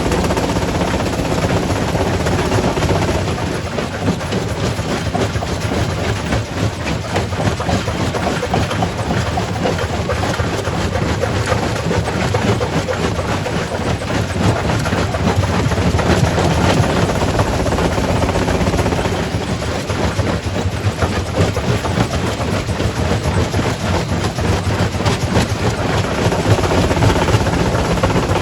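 Quarry primary rock crusher working: a heavy machine hum under a dense clatter of rock knocking and breaking, swelling and easing every several seconds as the load changes.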